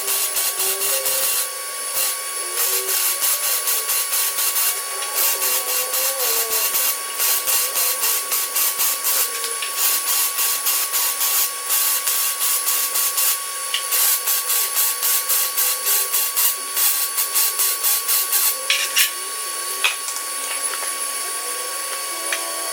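Welding arc on sheet-steel floorboard patches, crackling in short rapid pulses with brief pauses between welds.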